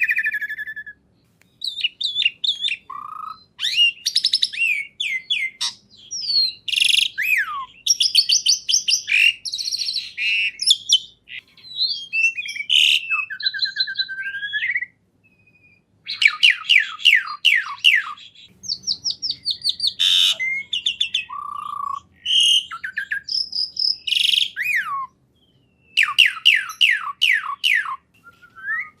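Songbird singing a varied song of rapid chirps, trills and whistled phrases, with short pauses between bursts.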